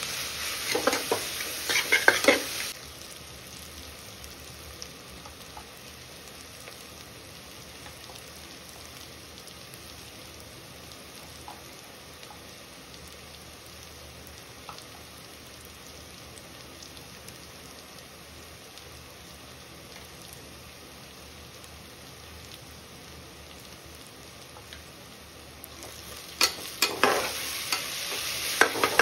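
Masala frying in oil in a pressure cooker, stirred with a spatula: loud, irregular scraping and sizzling in the first couple of seconds and again near the end, with a steady, quieter sizzle in between.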